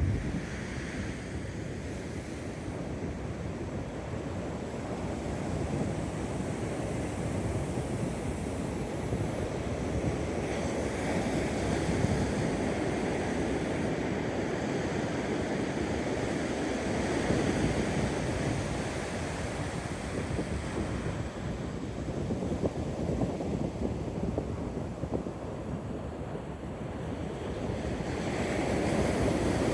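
Pacific Ocean surf breaking and washing up the beach: a continuous rush that swells and eases as the waves come in, with wind buffeting the microphone.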